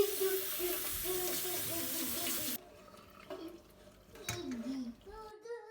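Water running from a tap into a sink as a steady hiss, shut off suddenly about two and a half seconds in.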